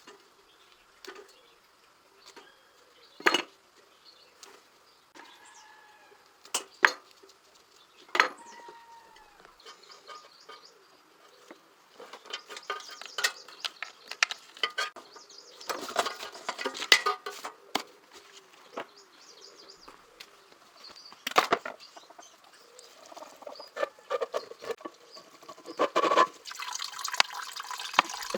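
Scattered clinks and knocks of small hard objects being handled, a few ringing briefly, with a busier clatter in the second half. Running water starts near the end.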